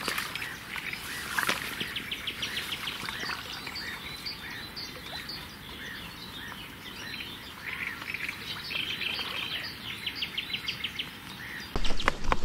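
Several songbirds chirping and singing, with short calls and rapid trills. Near the end a louder low rumble with knocks cuts in.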